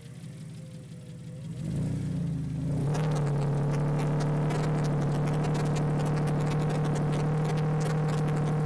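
Mitsubishi Pajero's 3.5-litre V6 engine building up about two seconds in, then running steadily at one high pitch under load, with a fast clatter over it.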